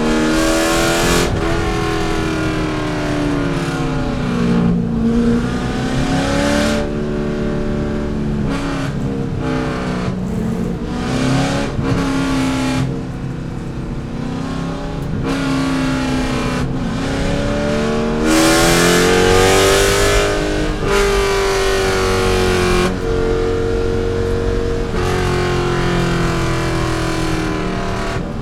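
C5 Corvette's 5.7-litre V8 under race load. The pitch climbs as it accelerates, drops suddenly on upshifts and lifts, and falls away under braking, over and over through a stretch of track.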